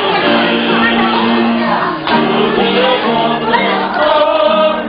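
Church praise song sung by a group of voices, with long held notes.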